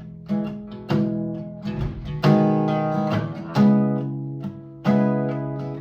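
Acoustic guitar strumming chords, each chord ringing out before the next; an instrumental passage between sung lines of a song.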